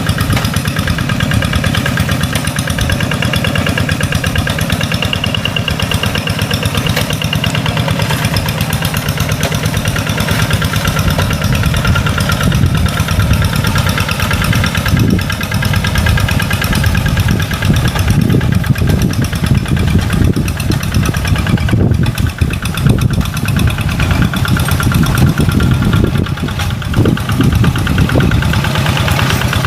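Tractor engine running steadily with a rapid low chug, becoming rougher and more uneven in the second half as it works.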